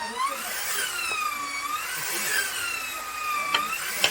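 Electric power tool cutting wood: its motor whine dips in pitch under load and recovers, over and over. A couple of sharp knocks come near the end.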